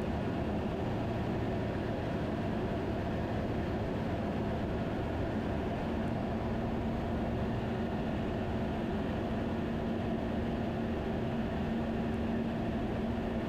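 Steady drone of a Van's RV-10 light aircraft's engine and propeller at low power, heard from inside the cockpit. A faint steady hum joins it about halfway through.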